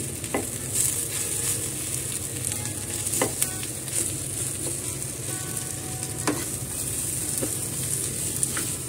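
Mashed chickpeas, onion and capsicum sizzling in a frying pan while a metal spoon stirs and scrapes them, with occasional sharp clinks of the spoon against the pan. The chickpea kebab mixture is being fried to drive off its moisture.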